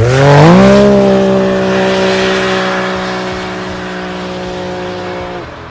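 A motor vehicle's engine revs up sharply and is held at steady high revs for several seconds under a loud hiss, then cuts off abruptly.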